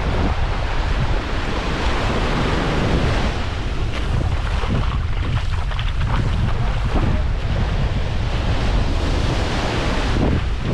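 Wind buffeting the microphone in a steady low rumble, over the wash of surf on the shore.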